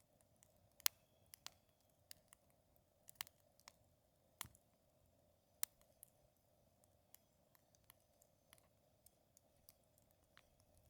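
Faint crackle of a wood campfire: irregular sharp pops and snaps, a handful louder than the many small ticks between them.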